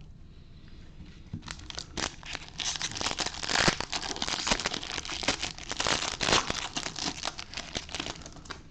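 Foil wrapper of a Bowman baseball card pack crinkling and tearing as it is handled and ripped open, a dense run of crackles that builds up over the first few seconds and dies away near the end.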